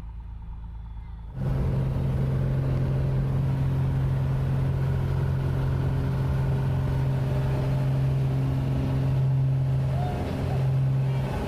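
Helicopter engine and rotor noise: a steady loud drone with a strong low hum, which cuts in abruptly about a second in over a quieter low hum.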